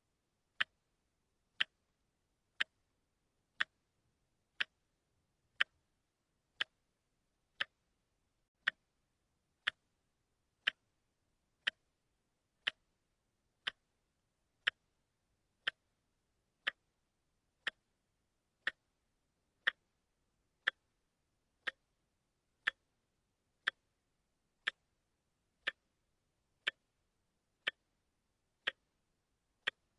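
Watch ticking steadily, one sharp tick a second with near silence between ticks.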